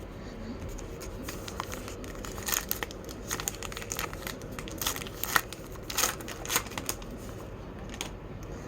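Wrapper of a baseball card pack being torn open and crinkled: a run of short, sharp crackles and rips, loudest about five to six and a half seconds in.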